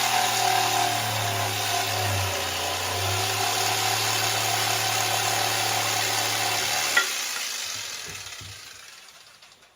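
Electric power tool motor running steadily with a constant hum. It is switched off about seven seconds in with a click and winds down, fading out over the next couple of seconds.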